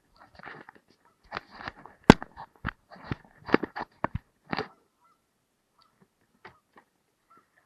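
Canada geese honking in a rapid, overlapping series with a few sharp knocks among the calls, the loudest about two seconds in; the honking dies down to a few faint calls after about five seconds.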